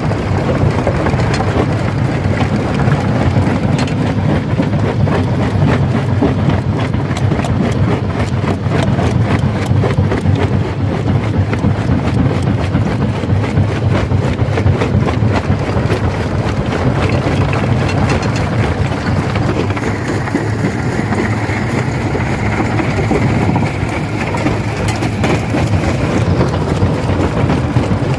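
Stone crusher machine running under load, a steady engine drone under a dense crackle and knocking of rock being broken.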